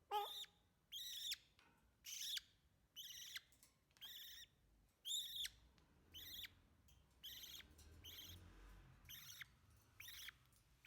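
Baby Alexandrine parrot calling over and over: short, harsh, high-pitched squawks about once a second, the later ones a little fainter.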